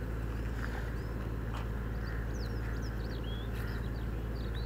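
Small birds chirping and trilling in short, quick phrases over a steady low rumble, with a few faint clicks.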